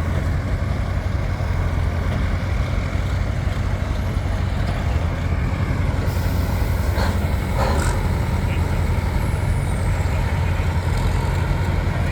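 Large tractor engine running at a steady pace: a deep, constant drone that neither revs up nor dies away. There are two brief clicks about seven and eight seconds in.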